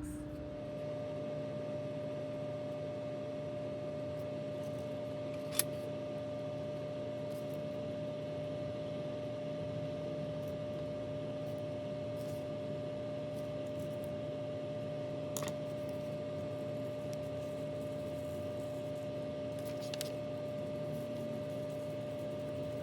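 Steady hum with a few constant tones, from an appliance or room equipment, and three brief faint clicks spread through it.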